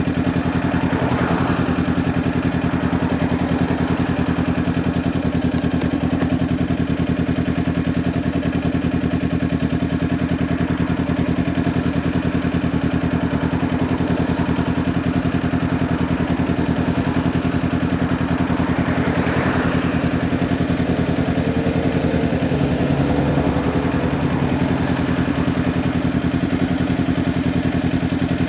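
Kawasaki Ninja 400 parallel-twin engine running at a steady, unchanging engine speed through a LeoVince LV10 slip-on exhaust, its pitch holding level throughout.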